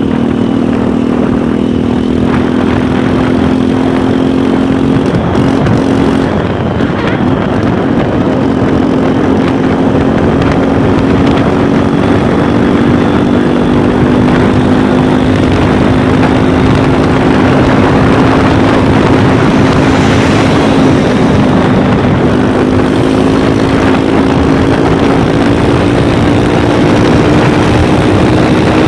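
Motorcycle engine running steadily under a loud rushing noise, its pitch climbing slowly, with a brief dip about five seconds in.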